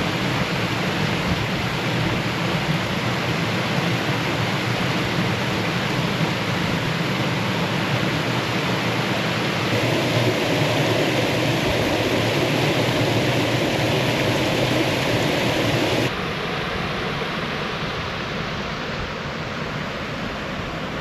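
Creek water rushing over rocks in a steady, full rush. It grows fuller about halfway through, then drops suddenly to a quieter rush about three-quarters of the way in.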